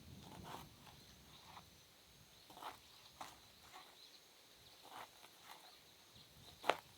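A series of light, irregular taps and clicks, the sharpest one near the end.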